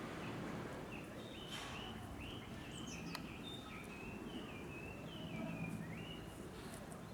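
Small birds chirping in quick, short twittering phrases over steady low background noise, with one sharp click about three seconds in.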